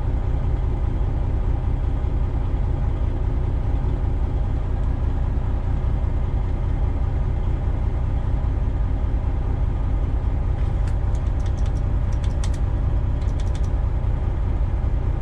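Semi truck's diesel engine idling steadily, heard from inside the cab as a low even rumble. A few brief faint clicks come in about two-thirds of the way through.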